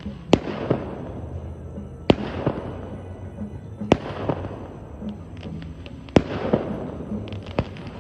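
Fireworks going off: loud sharp bangs about every two seconds, four in all, each followed about half a second later by smaller pops and a long echoing tail.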